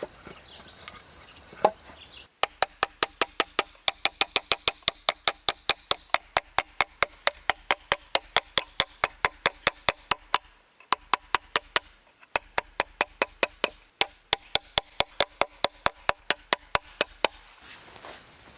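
Rapid, even knocks of a tool striking wood, about five a second, with two short breaks partway through.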